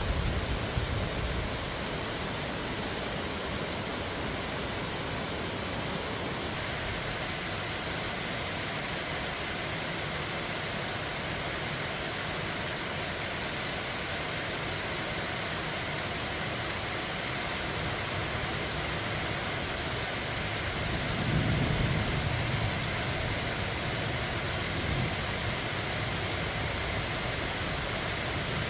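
Steady downpour of rain, an even hiss, with a brief low rumble about three-quarters of the way through.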